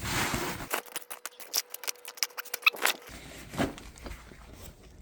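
Metal hand tools clinking and rattling as they are packed into a tool bag: a rapid run of sharp clicks and clinks for about two seconds, with rustling before and after.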